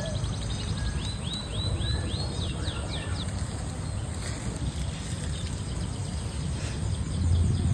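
A small bird singing a run of short, repeated chirps over a steady low rumble of background noise. The chirps are clearest between about one and three seconds in.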